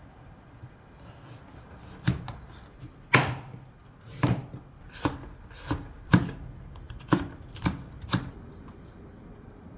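Kitchen knife chopping on a cutting board: about nine separate strokes at an uneven pace, roughly one every half second to a second.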